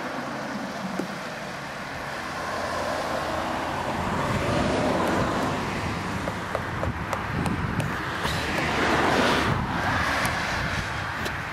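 Road traffic passing, swelling from about a third of the way in and loudest about three-quarters through before easing, with faint scattered taps throughout.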